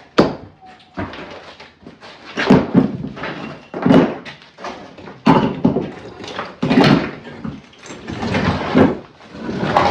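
Heavy knocks and thuds from bricks being struck and knocked loose during demolition of a fireplace's brick front. About seven sharp impacts land roughly a second or more apart, each with a short ring.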